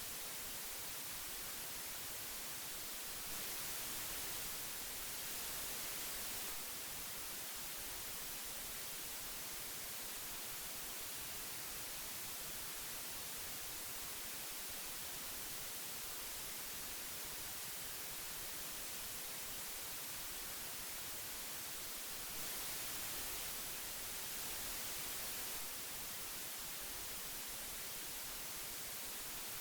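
Old magnetic tape hiss: a steady, even hiss, strongest in the high end, that grows slightly louder and brighter for about three seconds twice, a few seconds in and again after about twenty seconds.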